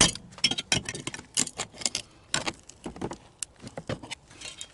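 Rapid, irregular metallic clinks and knocks of hand tools and small metal parts being worked while a microwave oven is taken apart for scrap, stopping just before the end.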